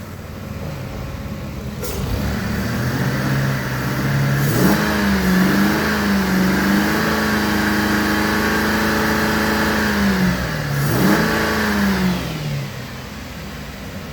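2015 Chevrolet Impala engine idling, then revved up about four seconds in and held at steady high revs for about six seconds. It drops, gives one brief second rev, and settles back to idle near the end, as in an engine run test.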